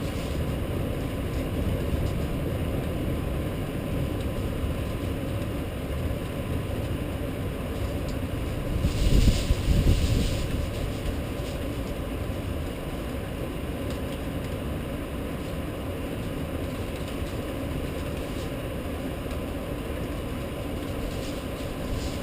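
Steady rain storm noise with a low rumble underneath, swelling into a louder rumble with added hiss about nine seconds in for a couple of seconds.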